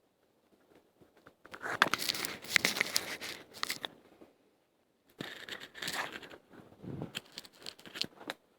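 Dry tinder and small twigs being broken and torn apart by hand, a dense crackling and tearing. It comes in two spells: one from about a second and a half in, the second from about five seconds in until near the end.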